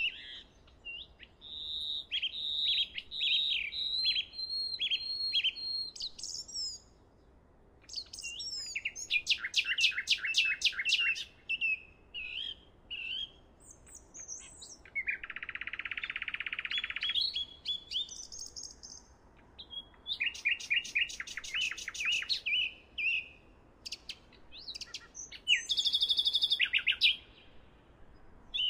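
Songbirds singing in short phrases of rapid chirps, trills and sweeping whistles, with brief pauses between phrases.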